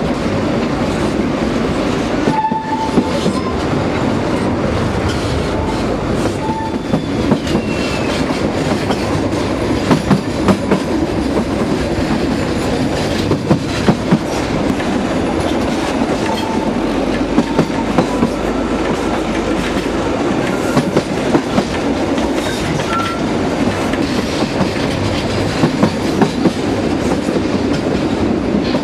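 Narrow-gauge (760 mm) train running along the track, its wheels clattering over the rail joints in a steady rumble, with a few brief high squeals from the wheels.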